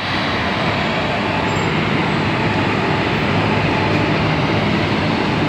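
A train hauled by two locomotives running, a loud steady rumble with a faint low hum in it.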